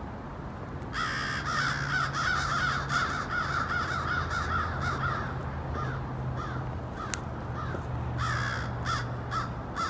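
Crows cawing: a dense run of rapid, overlapping caws starting about a second in, thinning to scattered single caws after the halfway point, over a low steady hum.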